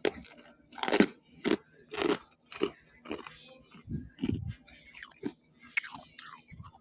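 A person chewing a mouthful of frost close to the microphone, with loud crunches about twice a second.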